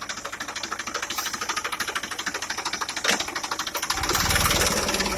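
Tractor diesel engine running with a fast, even knock. About four seconds in it grows louder and heavier in the low end.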